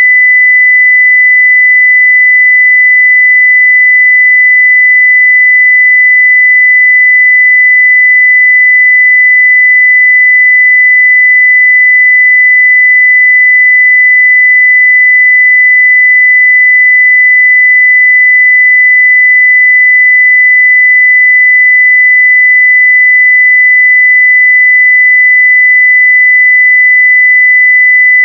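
A continuous pure 2 kHz sine-wave test tone at full level (0 dB), steady and unchanging.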